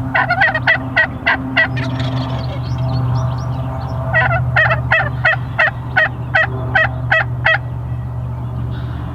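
Turkey yelps in two series of short, evenly spaced notes: about six near the start, then a longer run of about ten notes, over a steady low hum.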